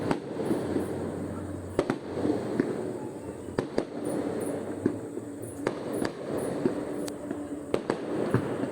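Fireworks display: a continuous crackle of bursting shells punctuated by sharp, irregular bangs.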